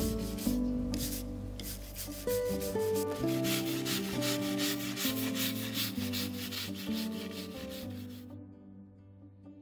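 Rhythmic scraping or rubbing strokes on a log, several a second, done by hand, over soft background music. The scraping stops shortly before the end, leaving only the music.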